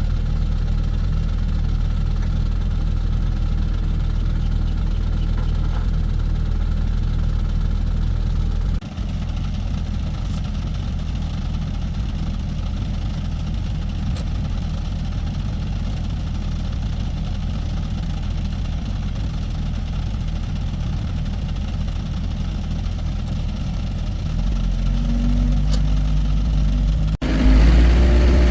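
An engine running steadily with a low note. It drops slightly about nine seconds in, then rises in pitch and level near the end, breaks off sharply and comes back louder.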